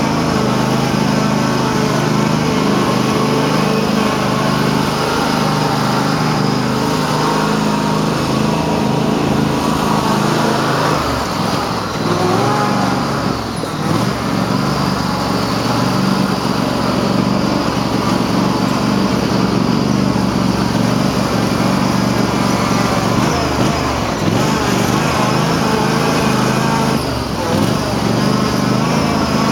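Cub Cadet garden tractor engine running hard at high revs while driving through mud, steady apart from two brief dips, about halfway through and near the end. The owner says the tractor is running poorly and doesn't know why.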